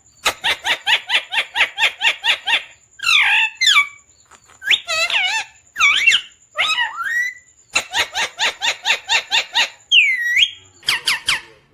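Pet parrot calling: two long runs of rapid repeated sharp notes, about five a second, with rising and falling whistled calls between them.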